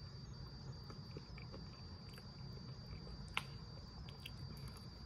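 Faint crunching of hard baked pretzel sticks being bitten and chewed, with one sharper crunch about two-thirds of the way through. A steady high-pitched whine and a low hum run underneath.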